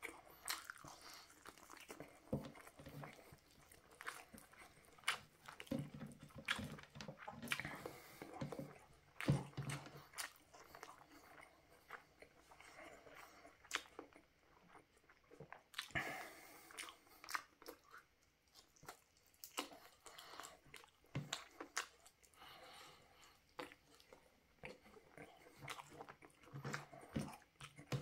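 A person chewing and biting into barbecued chicken with rice, with irregular short clicks and wet mouth sounds.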